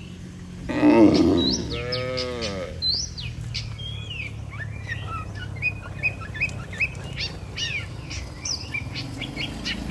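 A cow moos once, a long call starting about a second in, then many small birds chirp and twitter.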